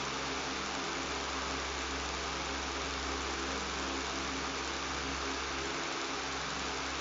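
Electric fan running steadily: a low buzzing hum under an even rush of air noise, unchanging throughout.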